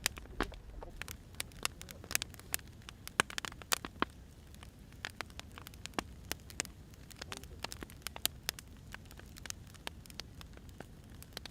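Burning firewood crackling, with irregular sharp pops and snaps over a soft low hiss.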